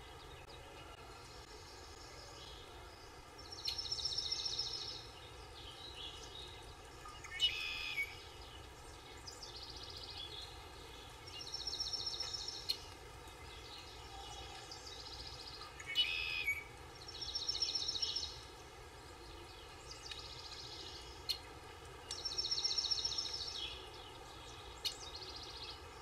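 Birds calling over a faint steady outdoor background: a high trilling call of about a second and a half repeats every few seconds, with short sharp chirps in between.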